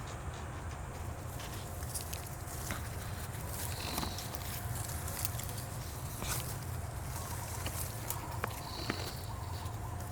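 A few short, high bird chirps, about four seconds in and again near the end, from a parent bird guarding its nest, over a steady low rumble and scattered clicks and rustling.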